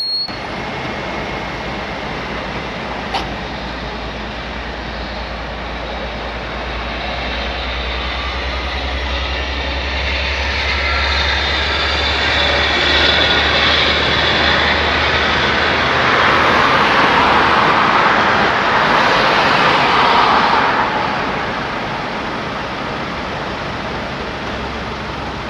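Train passing on the line, the rumble and rushing noise swelling to a peak and then fading away.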